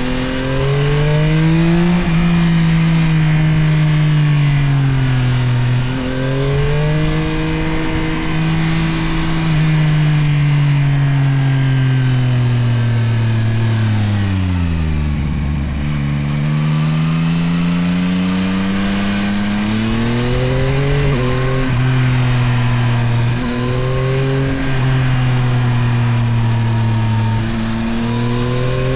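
Yamaha Tracer 9 GT+'s CP3 three-cylinder engine accelerating and easing off, its pitch rising and falling with the throttle and gear changes. About halfway the revs drop low as the bike slows, then climb again through several quick upshifts.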